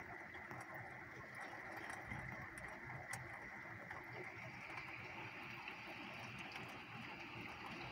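Steady hiss of a heavy rain shower, with scattered light ticks of drops striking nearby surfaces.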